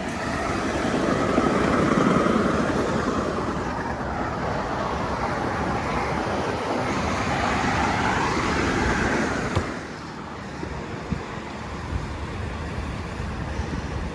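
Road vehicle noise, a dense rushing sound with a shifting pitch that drops off suddenly about ten seconds in to a quieter steady background.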